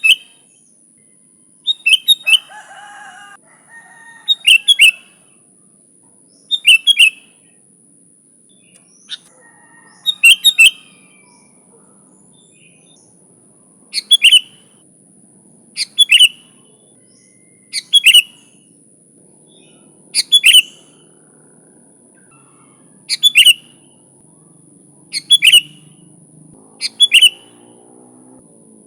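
Sooty-headed bulbul singing loudly: a short burst of quick, falling notes repeated about every two seconds. A faint steady high-pitched whine runs underneath.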